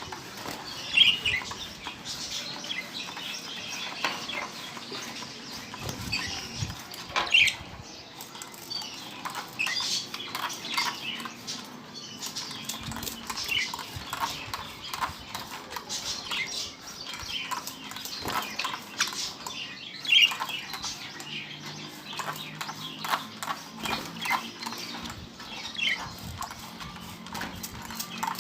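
Young budgerigars fluttering and moving about in a cage: wing flaps and scratchy rustles go on throughout, with a short chirp about every six seconds.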